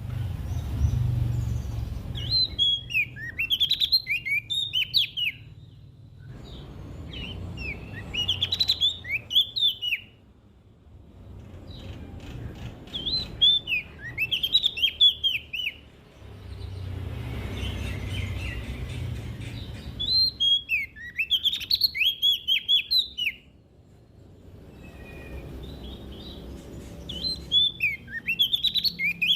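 A prenjak daun (leaf warbler) singing in short, quick phrases of high chirps and twitters, one every six seconds or so, five phrases in all, over a low background rumble.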